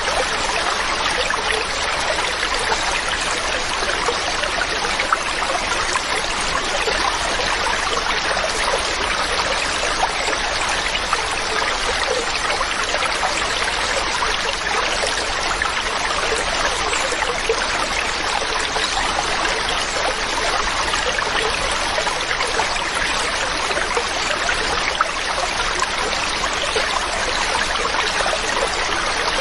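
Mountain stream running over rocks, a steady, even rush of flowing water.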